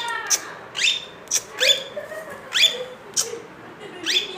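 Pet parrot giving a rapid series of short, rising whistled chirps, about two a second.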